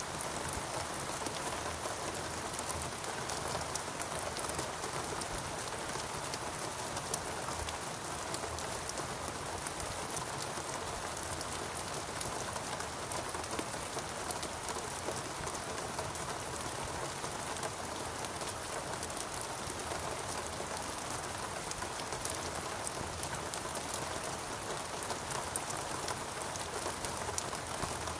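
Steady heavy rain falling on foliage and ground, a dense, even hiss with many individual drop patters.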